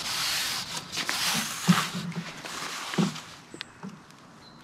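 Close rustling and rubbing as a freshly caught roach and the tackle are handled, with two sharper knocks in the middle, fading near the end.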